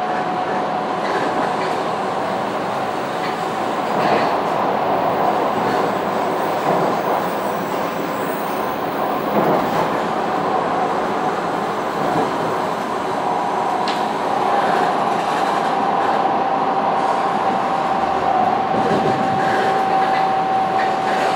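Tokaido Shinkansen train running, heard from inside the passenger cabin: a steady rumble of wheels on the track with a high, steady tone running through it and a few faint knocks.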